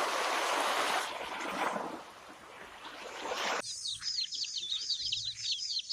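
A rushing hiss of noise for the first few seconds, then a bird chirping: a fast run of short, high chirps repeated several times a second.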